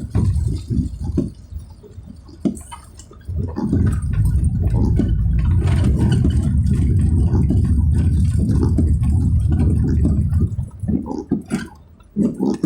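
Car driving on a wet road: a low, uneven rumble that swells about three and a half seconds in, holds steady, and eases near the end.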